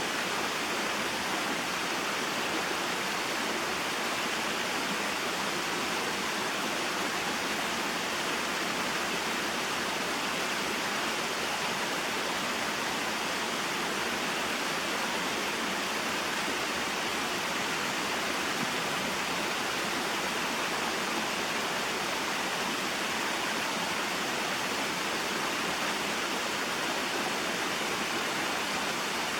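Small waterfall and mountain stream: a steady, even rush of flowing and falling water that does not change.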